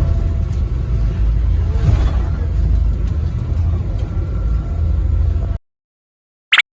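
Steady low rumble that cuts off suddenly about five and a half seconds in, followed by a short gliding electronic blip near the end.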